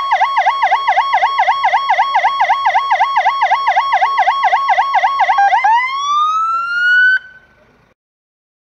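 Fire engine siren sounding a fast yelp, about four up-and-down sweeps a second. About five and a half seconds in it switches to a slow rising tone that cuts off abruptly a little after seven seconds.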